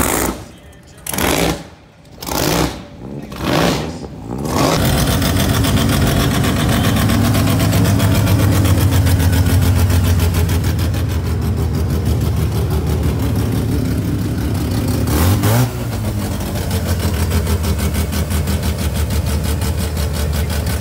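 Supercharged V8 revved in short blips, about one a second. Then a car engine runs steadily, with one quick rev about three-quarters of the way through.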